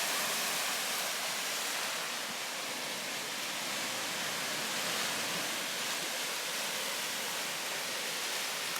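Steady wash of small waves on the shore of a calm sea.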